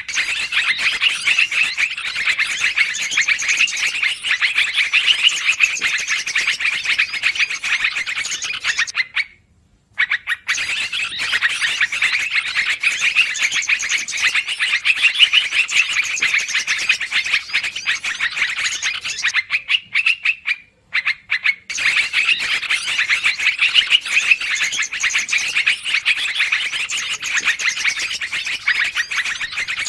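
Yellow-vented bulbul (trucukan) calls played as a bird-lure recording: busy, rapid chattering that breaks off briefly twice, about 9 and 21 seconds in, as the recording loops.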